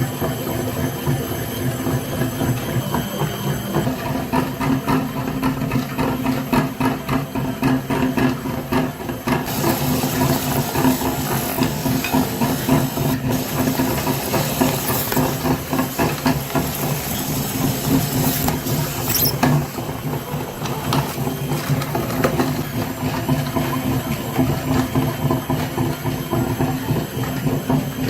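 A small motor running steadily with a low hum and a fast flutter, with a hiss joining in from about a third of the way in until about two-thirds through.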